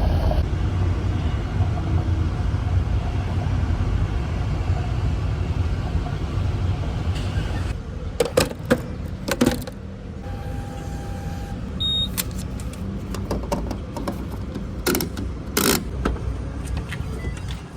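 Steady low rumble of a vehicle on the move for about eight seconds. Then it drops and a run of sharp clicks and knocks sets in, with a short steady beep a little past ten seconds.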